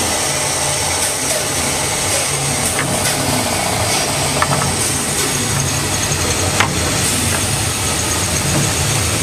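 Bandsaw fitted with a 1/2-inch, 4 TPI hook blade running steadily, with a few sharp clicks.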